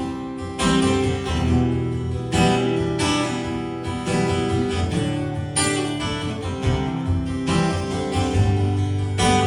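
Acoustic guitar strummed in a steady rhythm: the instrumental break of a live country song.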